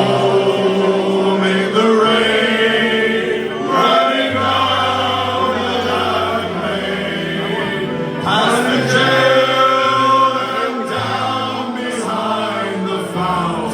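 Men singing a slow ballad live over instrumental accompaniment, with low bass notes changing every second or two.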